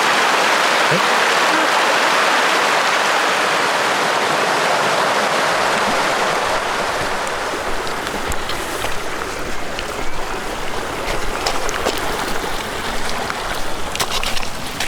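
Rushing water of a mountain stream, a steady hiss. It eases about halfway through, giving way to a low rumble and scattered clicks.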